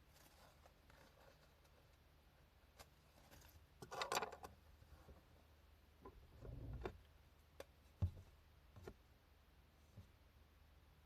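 Faint sounds of analog manga drawing work at a desk: a short rustle about four seconds in, a soft low knock a little before seven seconds, and a few light clicks after that, over near silence.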